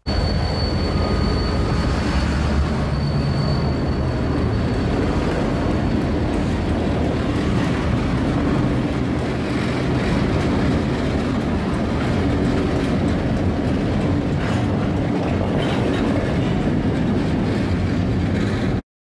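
Two SRY diesel-electric locomotives rolling past at close range: a steady loud rumble of engines and wheels on the rails. A thin high steady tone sounds over about the first five seconds, and the sound cuts off suddenly near the end.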